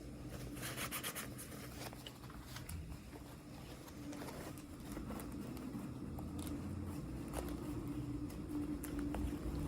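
Hands handling small toy packaging: a crinkly rustle about a second in, then scattered light clicks and taps, over a faint steady hum.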